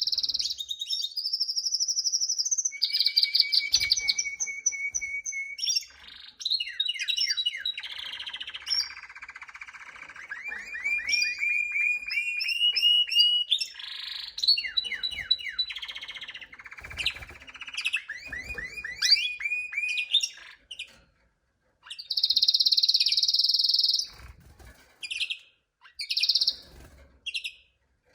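Domestic canary singing a long, varied song of fast trills and rolling phrases. Some phrases are high rapid rolls, one is a lower steady trill, and others are quick repeated sweeping notes, with a few short breaks in the second half.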